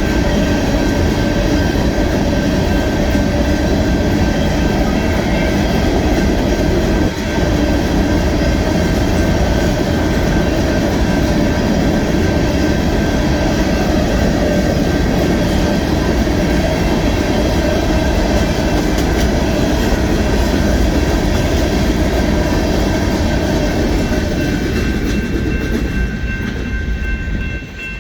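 Union Pacific rock train rolling past, its loaded freight cars making a steady wheel-and-rail rumble with some clickety-clack and a faint steady ringing. The noise thins out and drops near the end as the train moves away.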